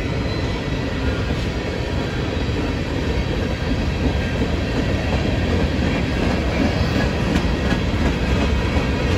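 Freight cars rolling past at trackside: a steady noise of steel wheels on rail as a mixed train of flatcars, coil cars, covered hoppers and boxcars goes by.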